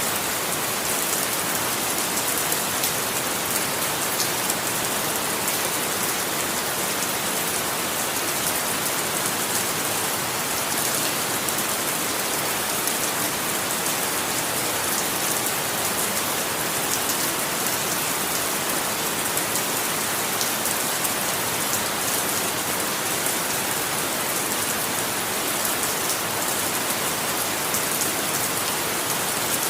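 Steady, even rain falling on a surface, with many fine drop patters and no change in intensity.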